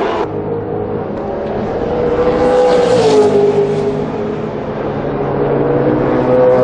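V8 Supercar race engine running hard under acceleration, its pitch climbing, dropping sharply about three seconds in at a gear change, then climbing again.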